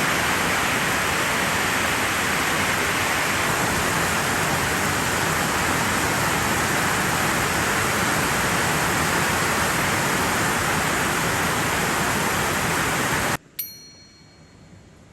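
Heavy rain falling hard, a steady even hiss that cuts off suddenly near the end, leaving only a faint hiss.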